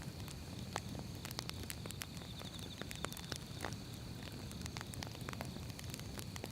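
Firewood burning in a fire, a low steady rumble with irregular sharp crackles and pops from the burning logs.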